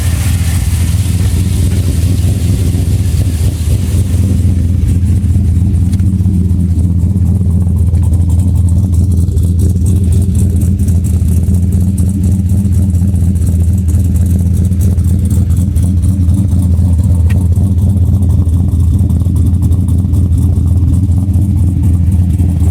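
Turbocharged 2002 Chevrolet Silverado pickup engine running steadily at a constant speed, shortly after a cold start from sitting about a month. A high hiss fades out about four seconds in.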